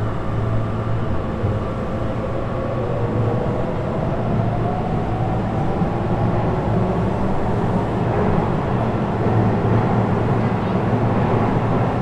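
Sotetsu 12000 series electric train running, its Mitsubishi IGBT-VVVF inverter and traction motors giving a whine that rises in pitch over the first half as the train picks up speed, over a steady rumble of wheels on rail.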